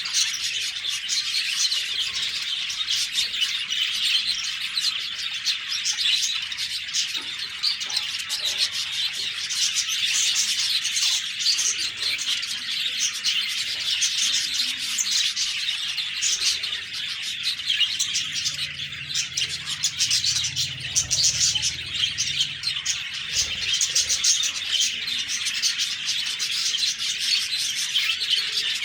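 A group of budgerigars (budgies) chirping and warbling nonstop, many short overlapping chirps at once.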